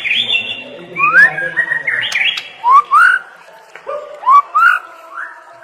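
White-rumped shama (murai batu) singing a run of loud whistled phrases, with several quick upward-sweeping notes and short sharp clicks between them.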